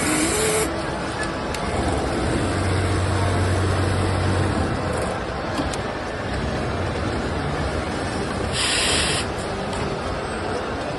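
Automatic lockstitch pintuck sewing machine running, with two short hisses like compressed air, one at the start and one near the end. A low hum sounds for about two seconds a couple of seconds in.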